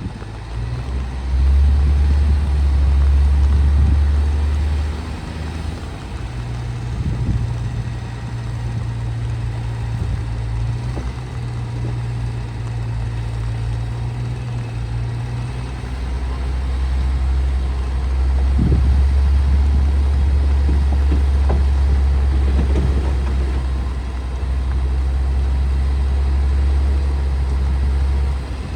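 Heavy earthmoving machine's diesel engine running under changing load, its low drone shifting down and back up in pitch a few times, with an occasional metallic clank.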